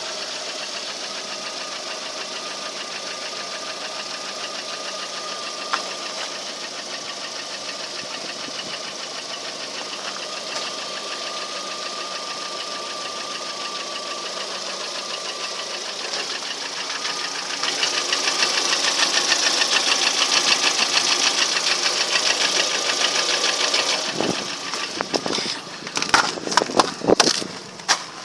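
Lada Priora engine idling with a fast, even knock whose cause is unknown. The engine sound gets louder about two-thirds of the way in, and a few loud, irregular thumps come near the end.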